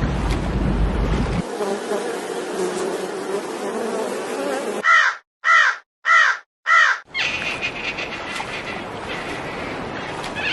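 An animal calling four times in quick succession, short arching cries about half a second apart. Before and after them are stretches of steady outdoor noise that change abruptly at edits.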